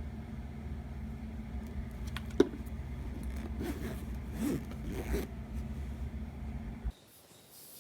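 Steady low hum of a vehicle cabin, with a sharp click about two and a half seconds in and several short rasping strokes, like a zipper, after it. The hum cuts off abruptly near the end.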